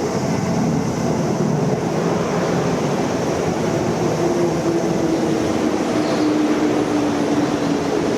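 Seibu New 101 series electric train slowing to a stop at the platform: steady running noise from wheels and running gear, with a whine that falls slowly in pitch from about four seconds in as it brakes.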